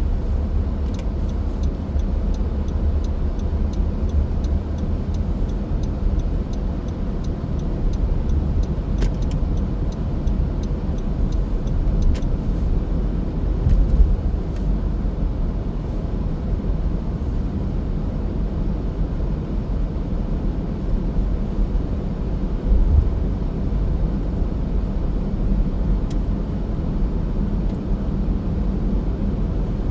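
Car driving along a road: steady low rumble of engine and tyre noise, with a few faint ticks.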